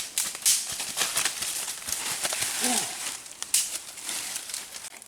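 Irregular rustling and crackling with many short clicks, as of dry material being handled, and a brief falling vocal sound about two and a half seconds in.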